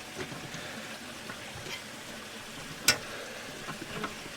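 Small clicks and taps from handling a tinplate model steam traction engine, with one sharp click about three seconds in, over a steady faint hiss.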